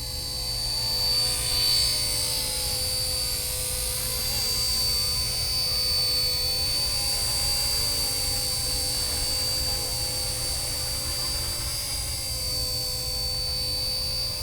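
Radio-controlled UH-1 Huey model helicopter running, a steady high whine from its motor and rotors over a low rotor rumble, swelling slightly in the first couple of seconds.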